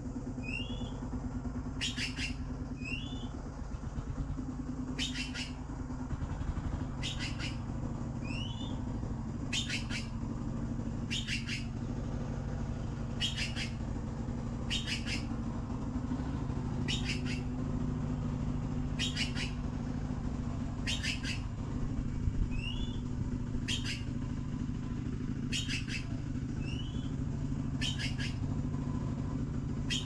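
Short, high bird calls repeating evenly about every one and a half to two seconds, with an occasional brief rising chirp between them, over a steady low rumble.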